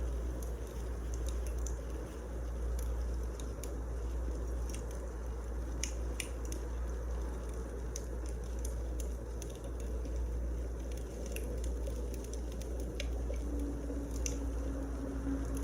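Wood fire burning in a fireplace: a steady low rumble of flames with scattered sharp crackles and pops of the burning logs.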